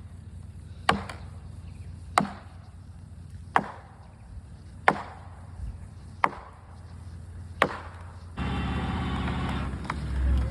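Felling wedges being pounded into the back cut of a big dead gum tree: six sharp, evenly spaced strikes about a second and a half apart. Near the end an engine starts up and runs steadily, getting louder.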